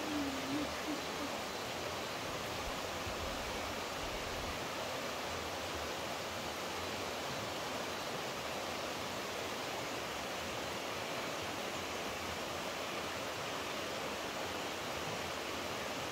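Steady rushing of flowing water, like a stream or small waterfall, an even hiss with no change. A short falling whistled note fades out right at the start.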